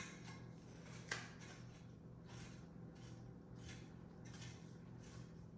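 Quiet handling of bird feeder parts during assembly: one sharp click about a second in, then several soft rustling scrapes, over a low steady hum.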